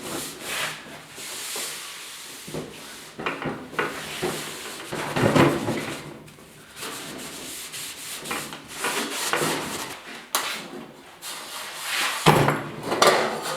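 Rag scrubbing and wiping on an old fluorescent fixture's metal housing with degreaser, irregular rubbing strokes cleaning off built-up grime.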